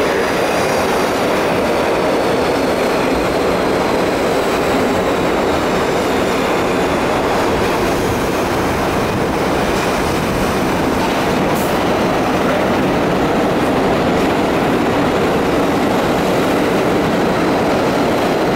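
New York City subway train running along the platform without stopping: a steady, loud rumble of wheels on rails, with faint high-pitched wheel squeal above it and one short click a little past the middle.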